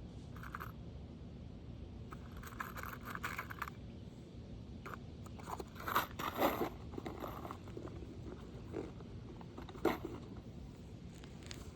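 Scraping and crunching on asphalt roof shingles as one is worked loose and handled, with a few sharp knocks midway and again near the end.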